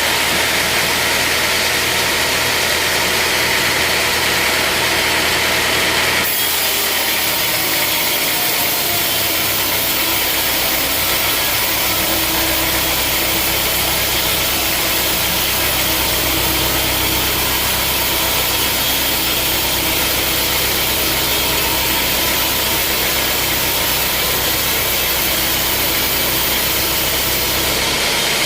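Sawmill machinery running steadily with a loud hiss. The sound changes abruptly about six seconds in, after which a low steady hum is stronger.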